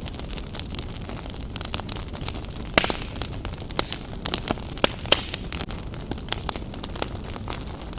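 Wood fire burning in a fireplace, crackling with irregular sharp pops over a low steady hiss; the loudest pop comes about three seconds in.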